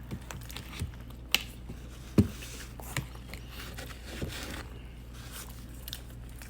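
Person eating pizza: quiet mouth and handling noises with a few sharp clicks, and one low thump about two seconds in.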